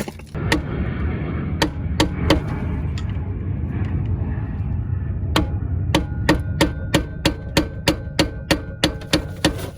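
Hammer striking a flat-head screwdriver to stake the new axle nut into the notch on the axle stub, metal on metal. A few separate blows come first, then a steady run of about three blows a second over the last four seconds, all over a steady low rumble.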